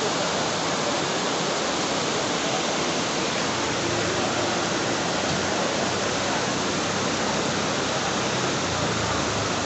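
Steady, unbroken hiss of heavy rain and wind.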